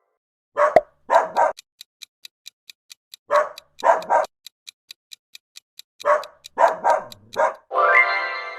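Dog barking in three short bursts of three, three and four barks, with a timer ticking about four times a second between the bursts. Near the end a long, low animal call begins.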